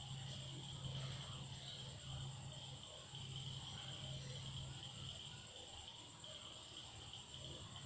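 Faint, steady chirring of insects, likely crickets, over a low steady hum.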